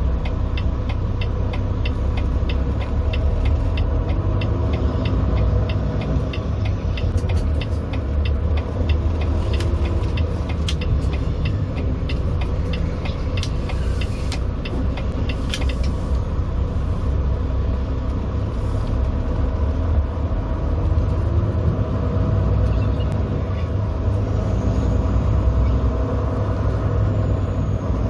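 Semi truck's diesel engine and road noise, a steady low rumble while driving, with a rapid regular ticking through the first half that stops a little past halfway.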